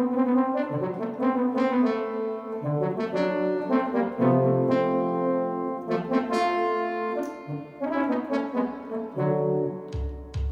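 Yamaha DX7 FM synthesizer playing a brass-like patch in sustained chords and melody notes. A deeper bass line comes in near the end.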